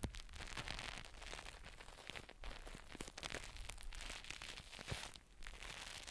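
Close-miked ASMR handling sounds: a continuous crackling and scratching with many small clicks.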